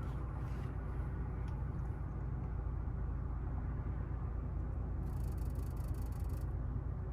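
Infiniti G37 under way, heard from inside the cabin: a steady low drone of engine and road noise. About five seconds in, a brief hiss starts and stops again a second and a half later.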